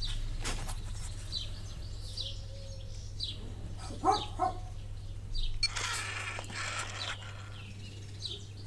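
Small birds chirping in a series of short calls. There is a brief louder sound about four seconds in and a short rustling noise around six seconds in, over a steady low hum.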